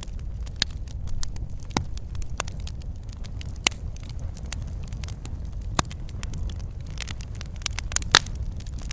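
Wood fire crackling in a fireplace: a steady low rumble of burning with irregular sharp pops and snaps, the loudest pop near the end.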